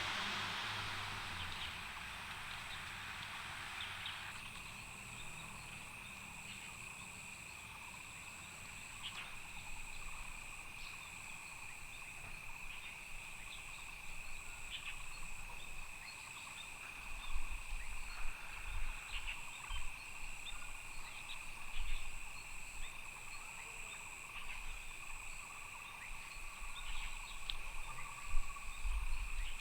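A steady outdoor chorus of calling insects and frogs, with a continuous high chirring and a faster pulsing trill above it. A broad rushing noise from a passing vehicle fades away in the first few seconds. Irregular low thumps come and go in the second half.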